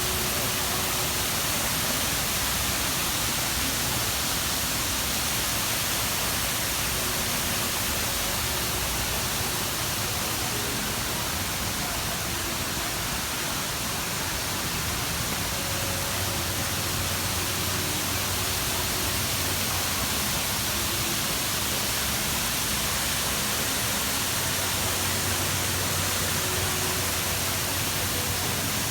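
Indoor waterfall running: water falling steadily into its pool, a constant rushing hiss that does not change. A faint low hum sits beneath it at times.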